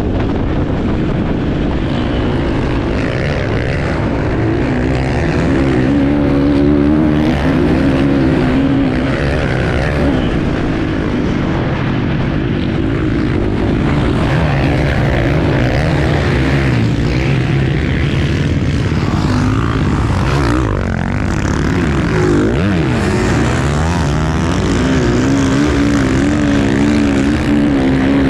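Enduro motorcycle engine heard on board while being ridden, its pitch rising and falling over and over as the throttle is opened and closed.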